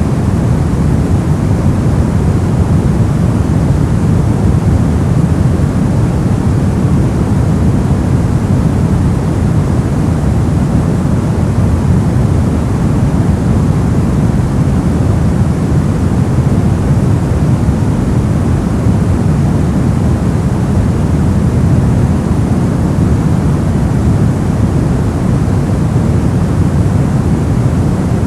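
Continuous white-noise track: an even, unchanging rush, heaviest in the low range and with little hiss on top.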